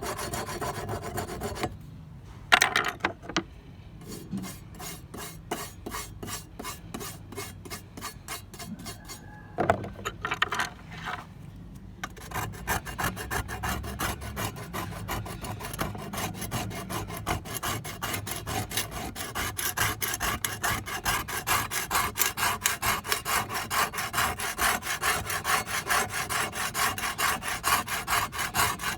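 Rapid back-and-forth rasping strokes of hand abrading on an old trowel, about four strokes a second, louder after about twelve seconds. A few sharp knocks come about two to three seconds in and again around ten seconds.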